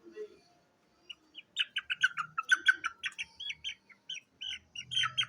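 Aseel chicken chicks peeping: a quick run of short, high peeps, several a second, starting about a second in.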